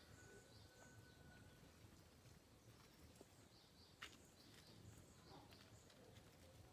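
Near silence: faint outdoor ambience with scattered faint high chirps and a single sharp click about four seconds in.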